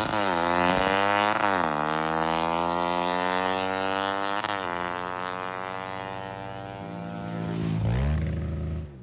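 Racing motorcycle engine at high revs, its pitch dipping sharply twice, then sinking slowly, rising again near the end and cutting off.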